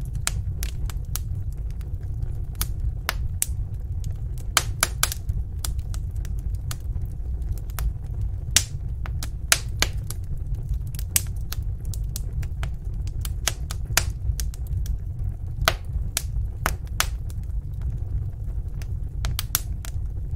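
Wood fire burning in a fireplace: a steady low rumble of the flames with sharp, irregular crackles and pops, several close together in places.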